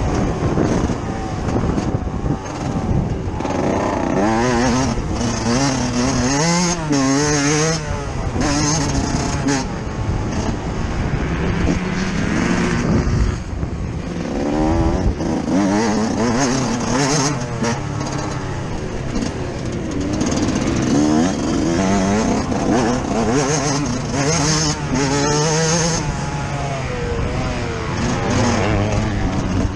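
Yamaha YZ 125 two-stroke motocross engine heard on board, revving up and down again and again as the rider opens and closes the throttle and shifts through the gears.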